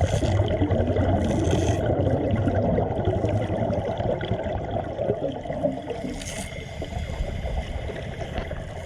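Water churning and gurgling, with brief hissing bursts about a second and a half in and again about six seconds in.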